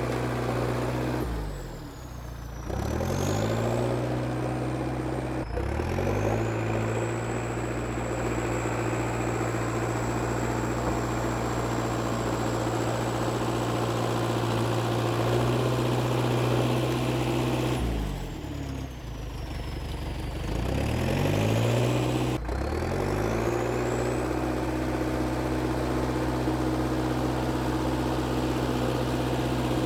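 IH TD8E crawler bulldozer's diesel engine running steadily, its revs sagging and picking back up twice, near the start and about two-thirds of the way through, with a high whine that falls and rises along with the engine. A sharp knock comes as the revs recover each time.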